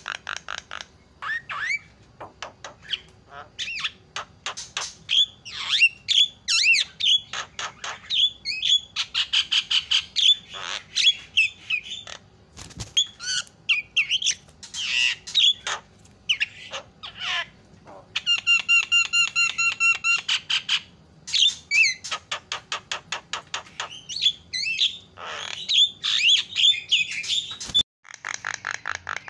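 Javan myna (jalak kebo) calling noisily: rapid chattering clicks, harsh squawks and whistled glides, with one long held whistle about two-thirds of the way through.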